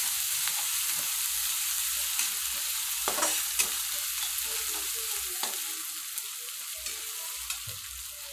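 Chopped onion, curry leaves and ginger-garlic paste sizzling in hot oil in a steel kadhai, with a metal spatula scraping and clicking against the pan as it stirs. The sizzle eases a little near the end as the stirring stops.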